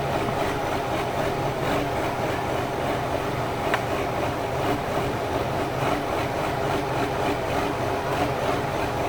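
Military 5-ton 6x6 truck's engine running steadily under load as it pulls on the cable to the tree. There is one sharp click about four seconds in.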